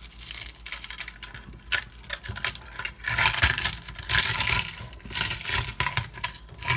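Hands crushing and rubbing damp wild bird seed, the grains crunching and rattling in uneven bursts that are heaviest through the middle.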